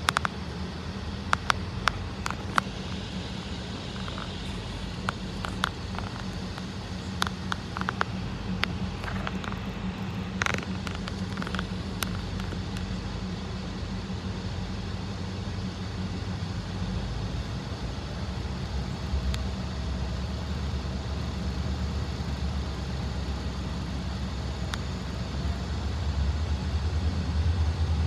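Low vehicle engine rumble with scattered sharp clicks in the first half, the rumble growing louder over the last ten seconds.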